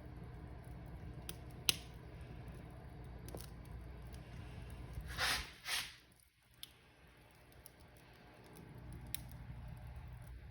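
Wood fire in a fireplace burning with a low steady rumble and scattered sharp crackling pops. About five seconds in come two louder hissing bursts close together, after which the rumble briefly fades and then builds back.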